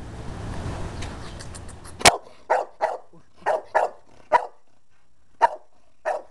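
A dog barking at the camera, angry at it: after about two seconds of steady noise, a loud sharp first bark followed by about seven short barks at uneven intervals.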